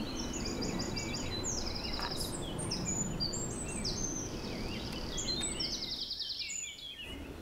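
Songbirds chirping and singing fast high trills over a steady low outdoor background noise; the low background drops away briefly about six seconds in.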